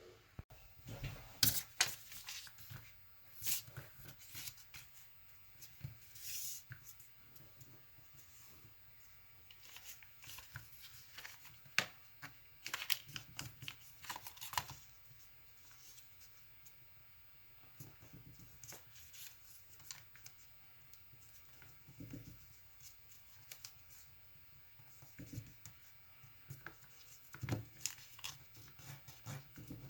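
Origami paper being folded and creased by hand: irregular crinkling rustles and crackles that come in clusters, with quieter stretches between.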